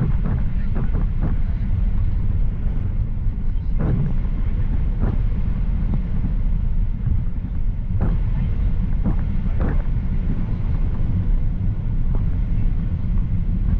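Steady low rumble of a Boeing 737-800's engines and airframe heard from inside the passenger cabin, with a few faint brief higher sounds over it.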